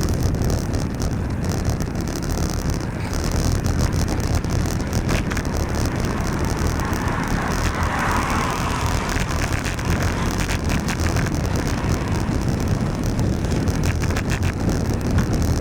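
Wind buffeting a bicycle-mounted microphone while riding in the rain, a steady low rumble. About halfway through, a hiss swells and fades.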